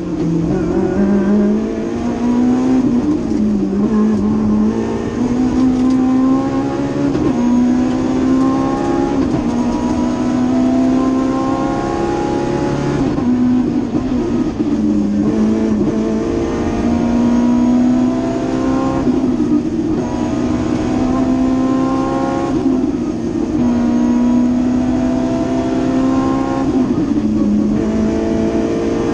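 BMW M3 rally car's engine heard from inside the cabin, running hard at high revs: the pitch climbs and drops back again and again as the driver shifts gears and lifts for corners.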